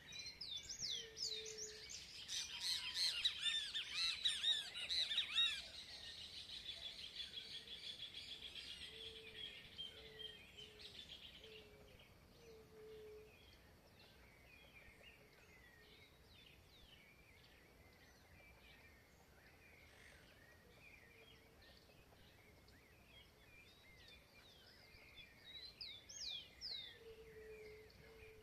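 Birds singing: a loud run of rapid, repeated high notes over the first ten seconds or so, fading into scattered faint chirps, with another short burst near the end. A soft low call recurs now and then underneath.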